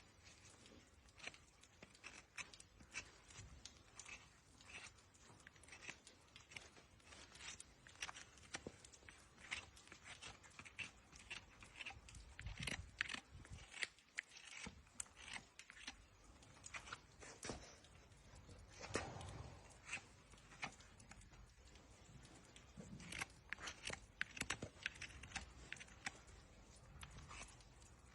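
A horse's hoof being trimmed with farrier's hand tools: faint, irregular short scraping and snipping cuts into the hoof horn, a few coming in quicker, louder clusters.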